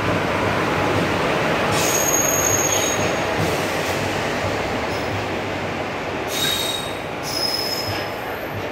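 Passenger coaches of an arriving express train rolling slowly past with a steady rumble, with brief high-pitched wheel and brake squeals about two seconds in and again around six to seven seconds in.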